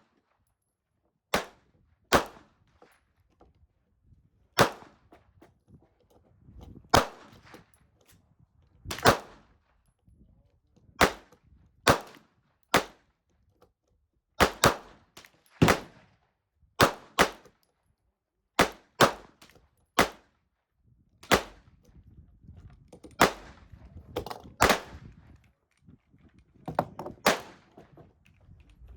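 Single gunshots fired one at a time, about twenty sharp cracks each with a short ringing tail, spaced irregularly a second or two apart and sometimes in quick pairs.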